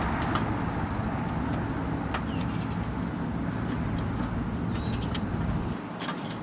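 A steady low rumble, dropping a little near the end, with a few faint clicks and taps of hands working at the latches of a sewing machine carrying case.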